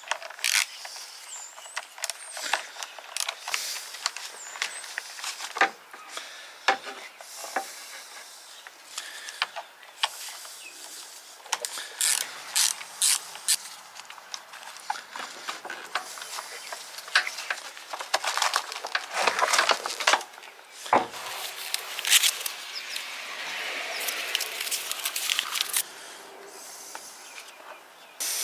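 Irregular clicks, knocks and rattles of mechanical handling, like tools and metal parts being worked by hand, with a stretch of rustling hiss in the second half.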